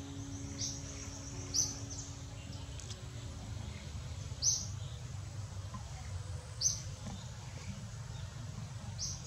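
A bird chirping, one short high chirp every second or two, over a steady low rumble of outdoor noise. Faint held notes of background music fade out about three seconds in.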